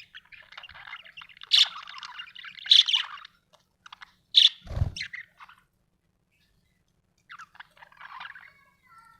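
Budgerigar chirping in quick bright calls for the first three seconds, then a sharp chirp and a single low thump a little before the middle. After a short pause it resumes with softer chirping and short gliding notes near the end.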